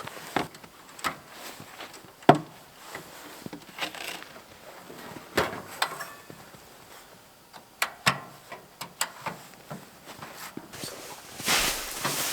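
Irregular knocks and clicks of tent and camping gear being handled during a hot-tent setup, with one sharp knock about two seconds in and a rustling noise near the end.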